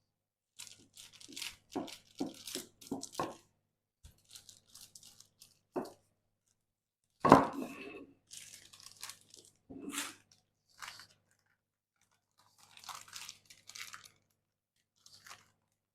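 Parchment paper crinkling and rustling in irregular bursts as dough is rolled out between the sheets with a rolling pin, with one sharper knock about seven seconds in.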